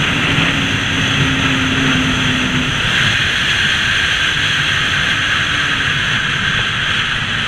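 Motorbike engine running at speed with loud wind rushing over the microphone; the engine note drops away about three seconds in.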